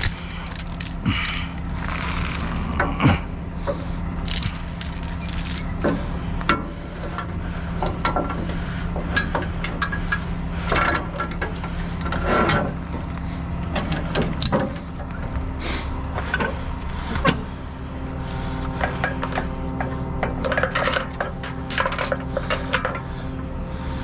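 Repeated metallic clinks and clanks of tow rigging hardware being handled, over a truck engine idling steadily.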